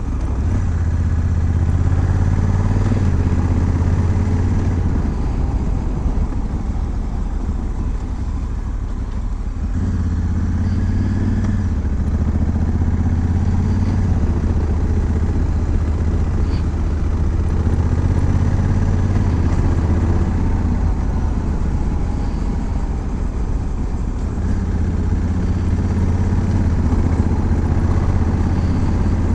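Honda Africa Twin's parallel-twin engine running while the motorcycle is ridden along, its note easing off and picking up again a few times.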